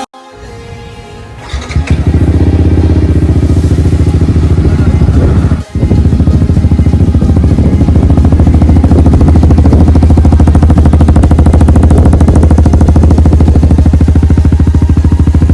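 Yamaha R15's single-cylinder four-stroke engine idling loudly and steadily through a RacingLine full-system aftermarket exhaust. It comes in about two seconds in and drops out briefly once a few seconds later.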